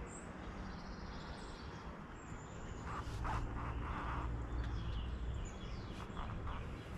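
Outdoor ambience: faint bird chirps over a low rumble that swells in the middle, with a few soft brief sounds.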